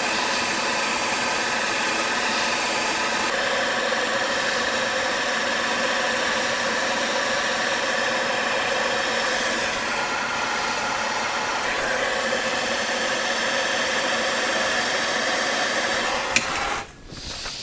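Steady blowing hiss of a handheld heating tool warming an engine stud to soften its heat-sensitive thread-locker, switched off with a click near the end.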